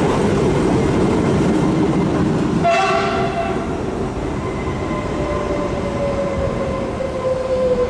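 Trenitalia Frecciarossa high-speed electric train pulling out over the station pointwork with a steady rumble of wheels on rails. A short horn blast sounds about three seconds in. A faint whine slides slowly lower near the end.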